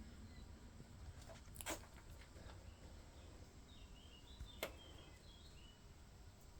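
Near silence: faint background hiss with two short clicks about three seconds apart and a few faint high chirps in the second half.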